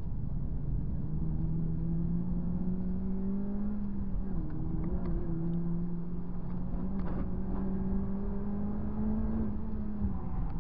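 Honda Civic Type R FD2's 2.0-litre K20A four-cylinder engine heard from inside the cabin, pulling steadily up through the revs on track. It dips briefly about four seconds in, climbs again, and falls away near the end, over constant road and tyre noise.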